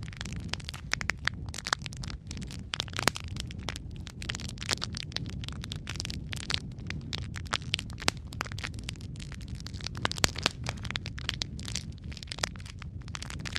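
Wood fire crackling in a fireplace: many irregular sharp pops and snaps, some louder than others, over a steady low rumble of the flames.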